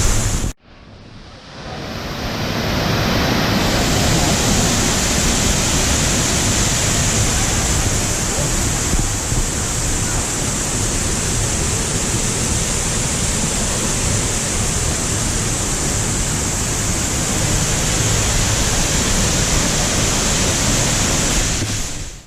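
Waterfall rushing: a loud, steady wash of falling water. About half a second in it drops out briefly and swells back up over the next few seconds.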